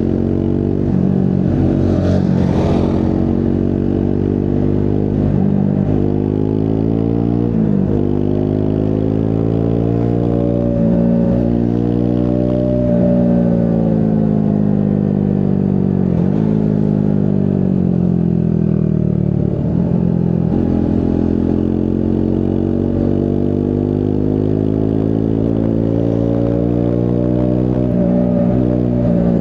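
Triumph Scrambler 400 X's single-cylinder engine under way, its note climbing as it accelerates and dropping sharply at each gear change, then falling away as the bike slows around the middle before climbing again.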